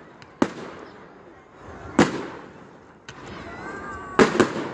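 Fireworks bursting in the air: loud bangs about every second and a half, each trailing off in an echoing rumble, with a quick flurry of bangs near the end.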